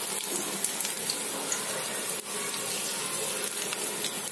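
Batter-coated green bean pakoras frying in shallow oil in a wok: a steady sizzle.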